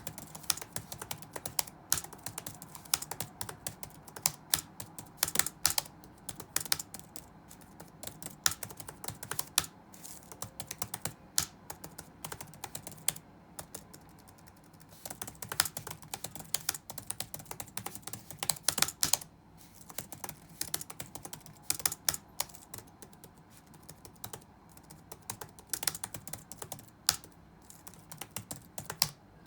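Touch-typing on a computer keyboard: quick, irregular runs of keystrokes with brief pauses between them, over a faint steady low hum.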